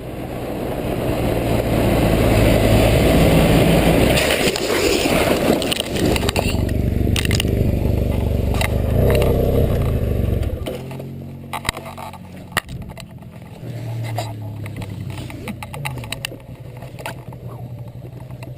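Motorcycle engine running under way with heavy wind and road noise; it drops back about ten seconds in. The rest is lighter running broken by a scatter of sharp clicks and knocks.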